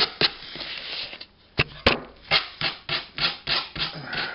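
Sandpaper on a sanding cork rubbed back and forth along the edge of a home-made freezer shelf, taking the sharpness off it. The strokes pause briefly with two sharp knocks, then resume at about four strokes a second.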